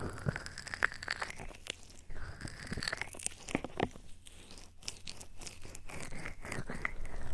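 Close-miked ASMR trigger sounds: irregular soft clicks and crackles, denser in some stretches, with a low rushing noise building near the end.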